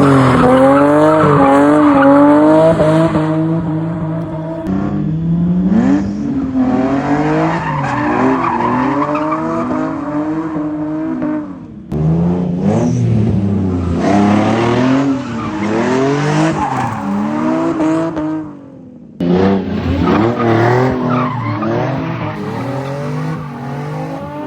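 Drift car engine revving up and down hard while the tires squeal through slides. The sound breaks off abruptly about twelve and nineteen seconds in, then starts again.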